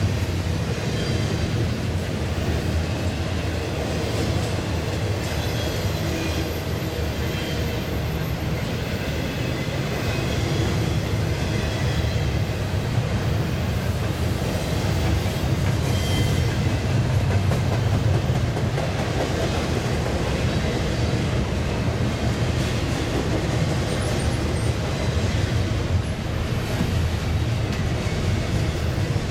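Double-stack intermodal well cars rolling past on steel rails: a steady, unbroken rolling noise of wheels on track, with faint brief wheel squeals now and then.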